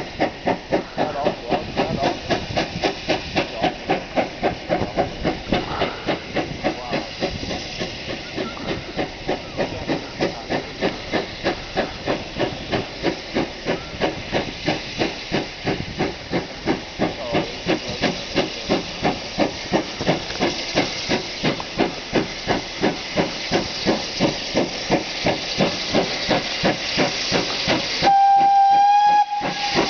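Steam locomotive exhaust beats, fast and evenly spaced, from GWR 56XX tank engine 5619 thrashing up a gradient under heavy load, banked by a BR Standard Class 5. Near the end a steam whistle sounds one steady blast of about a second and a half.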